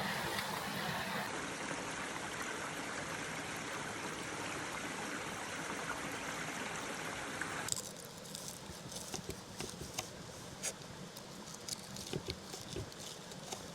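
Mountain stream running with a steady rush, cutting off abruptly about eight seconds in to a quieter background with irregular sharp clicks and crackles.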